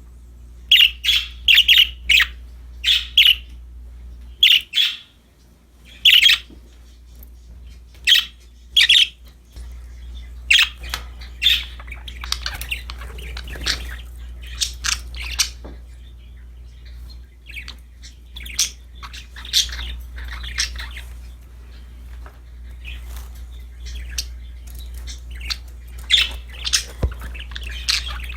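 Pet budgerigars chirping and squawking in short, sharp calls, loud and spaced apart at first, then a denser, softer chatter. A steady low hum runs underneath.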